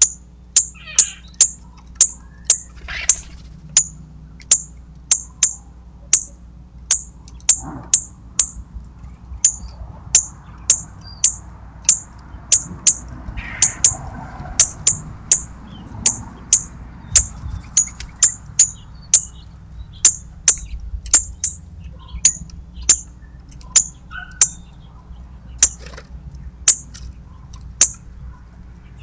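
A bird's sharp, high chip notes, repeated steadily about twice a second, over a faint low background rumble.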